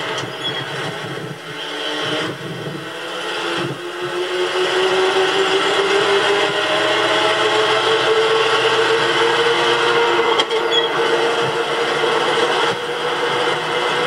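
Jeep CJ5 Renegade driving, its engine and road noise heard from inside the vehicle. The engine's pitch climbs as it picks up speed about four seconds in, then holds steady.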